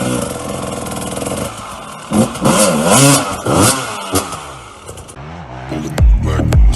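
Dirt bike engine revving, its pitch rising and falling several times in quick swings. Music with a heavy beat comes in near the end.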